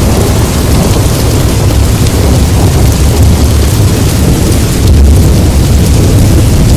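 Steady heavy rain from a rain-sounds ambience recording, with a deep continuous low rumble under the hiss of the rain that swells slightly about five seconds in.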